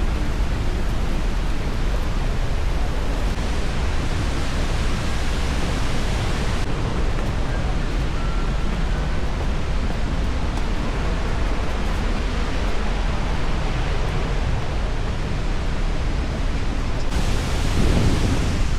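Ouzoud waterfall rushing: a steady, loud roar of falling water.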